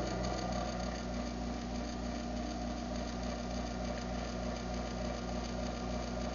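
Craftsman half-horsepower garage door opener's motor running steadily through an opening cycle, a constant hum with a faint even pulsing.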